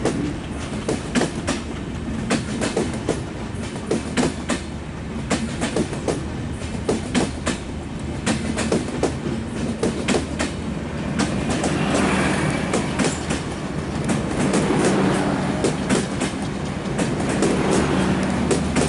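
Passenger train coaches rolling past at speed, their wheels clicking irregularly over the rail joints. About two-thirds of the way in, a rushing noise and a steady low hum grow louder.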